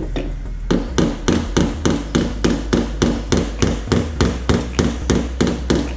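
Hammer tapping on the dented steel body panel of a Toyota Avanza in a steady run of sharp blows, about three a second, starting under a second in. The panel is being knocked down while the dent is slowly pulled out with a spot-welder dent puller.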